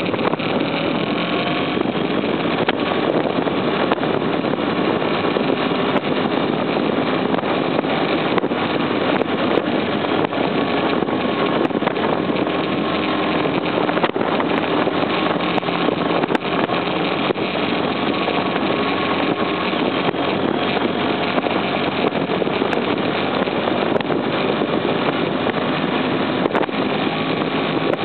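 BMW F800ST's parallel-twin engine running steadily while riding, under heavy wind rush on the bike-mounted camera's microphone.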